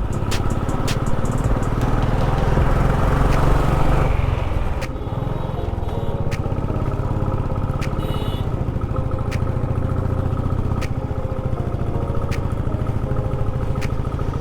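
Motorcycle engine running under load on a steep hill climb, pulling harder at first and easing off about five seconds in.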